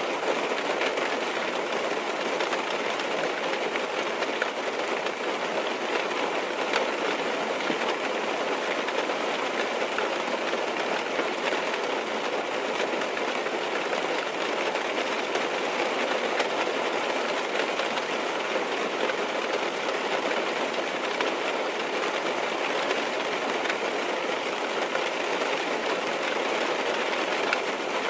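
Rain falling on a car's roof and windows, heard from inside the car: a steady, even hiss with scattered drop ticks.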